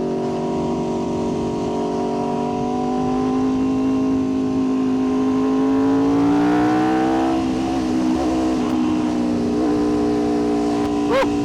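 Aprilia RSV4's V4 engine running steadily under way, its pitch rising gradually a little past the middle and then settling back. A quick throttle blip near the end.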